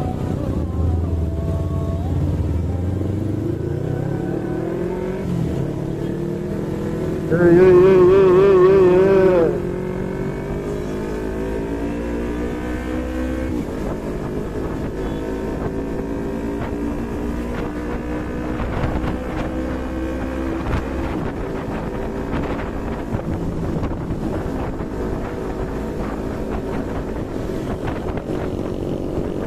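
Yamaha MT-25 parallel-twin engine under way, its pitch climbing and dropping as it pulls through the gears. About seven and a half seconds in, a loud warbling horn sounds for about two seconds, louder than the engine.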